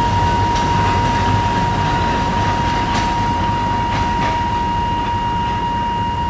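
Alishan Forest Railway narrow-gauge diesel train passing over a level crossing: a low engine and running rumble with a few clanks of wheels on the rails, easing off slightly. A steady high-pitched tone sounds over it.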